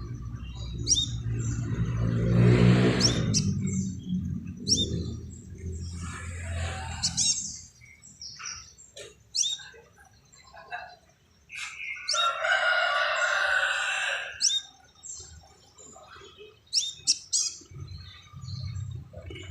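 Crimson sunbird giving rapid, sharp, high-pitched chirps, repeated in bursts. A louder, lower sound comes about two seconds in and again midway.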